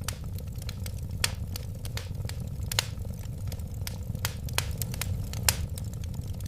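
Wood fire crackling: a steady low rumble of flames under frequent sharp pops and snaps, a few of them noticeably louder.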